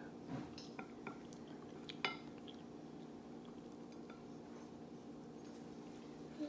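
A few light clinks and taps of eating utensils against a dish, over a faint steady hum.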